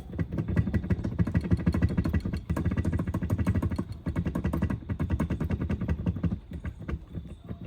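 Rapid mechanical rattle of many quick strikes from a tool working on the stuck bolts of a Mercruiser Alpha One sterndrive lower unit. It breaks off briefly about two and a half seconds in and stops near the end.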